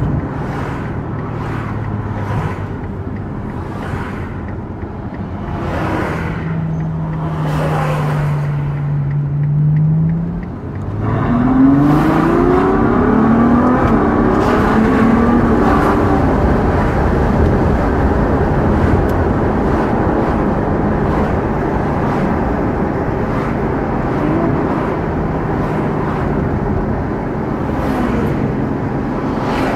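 Ferrari GTC4 Lusso engine heard from inside the cabin, running steadily at low revs. About ten seconds in the sound dips briefly, then the engine pulls hard, its pitch climbing several times with quick upshifts, and it settles into a louder steady run with road noise.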